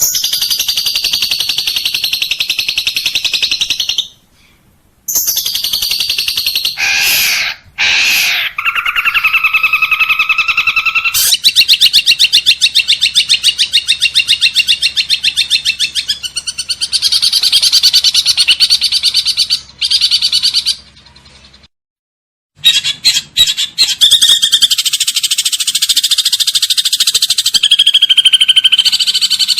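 Recorded songbird song: a string of spliced clips of fast, buzzy chattering trills, separated by short silent gaps. About seven seconds in there are two quick rising whistles.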